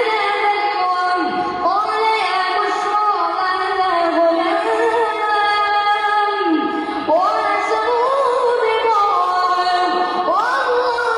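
A single high voice reciting the Quran in melodic tajweed style. It holds long drawn-out notes that bend and waver, and new phrases rise in about two, seven and ten and a half seconds in.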